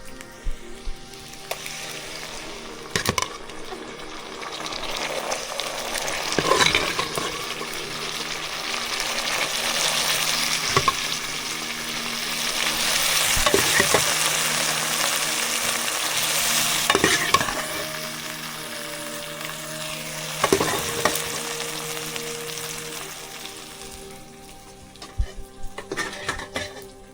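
Food sizzling in hot oil in a pan while being stirred, with sharp knocks and scrapes of the stirring utensil. The sizzle swells to its loudest about halfway through and dies down near the end.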